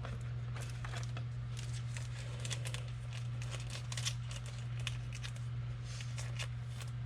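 Trading cards being handled and sorted, with scattered light clicks and rustles of card stock and packaging, over a steady low hum.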